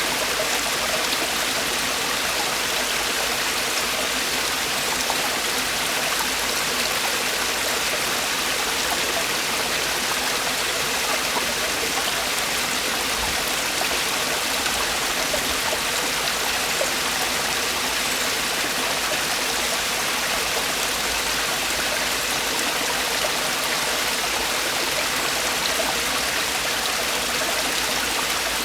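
Mountain stream water falling and rushing over rocks in a valley: a steady, even splashing rush.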